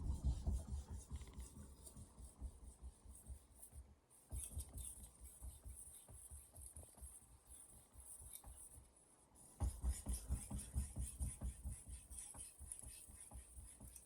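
Santoku blade stroked back and forth on a wet 5000-grit sharpening stone: a fast, rhythmic run of scraping strokes, several a second, pausing briefly twice.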